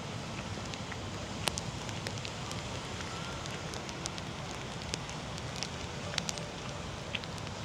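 Steady rain falling, with scattered sharp drips and pattering ticks of drops hitting hard surfaces close by, at irregular intervals, over a low, even background noise.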